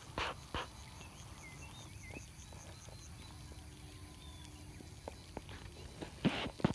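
Faint animal calls: a few short curving chirps and a quick, even high-pitched trill of about five notes a second, with short rustling bursts near the start and near the end.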